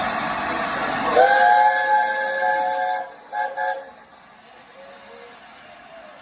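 Steam locomotive chime whistle, the three-chime whistle of an LNER A4 Pacific, sounding a chord. It scoops up in pitch about a second in, is held for about two seconds, then gives two short toots. Before it, a loud steady rush of noise that stops as the whistle begins.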